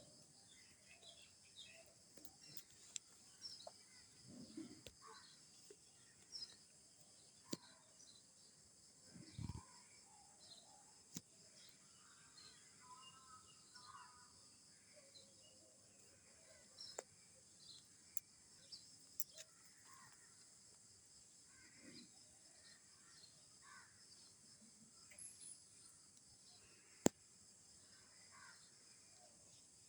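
Faint outdoor ambience: scattered distant bird calls over a steady high insect drone, with a few sharp clicks, the loudest about 27 seconds in.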